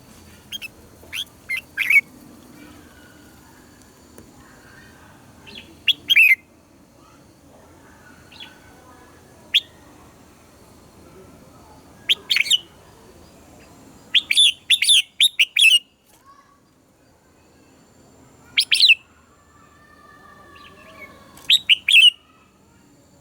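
Red-whiskered bulbul singing short, loud bursts of quick chirping notes, one burst every few seconds with pauses between.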